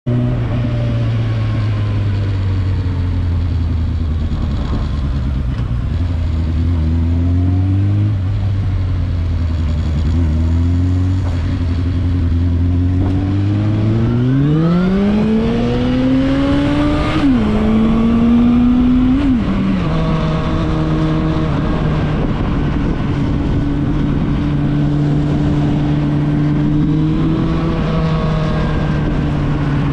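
Suzuki Bandit 650's inline-four engine running through a Scorpion aftermarket exhaust. It holds steady low revs, then accelerates with a rising note about halfway in. The pitch drops twice a couple of seconds apart as it shifts up, and it then runs at steady cruising revs.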